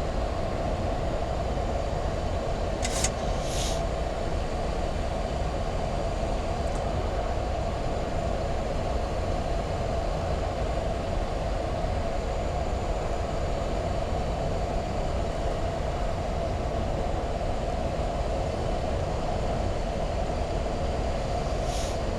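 Steady flight-deck noise of a Boeing 737 MAX 8 on final approach with gear down and flaps 30: an even rush of airflow and engine noise. Brief hisses come about three seconds in and again near the end.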